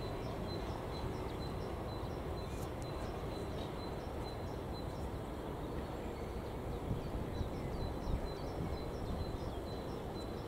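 Freight wagons rolling slowly over the rails, a steady low rumble with a few louder knocks in the second half. A high short chirp repeats about three times a second throughout.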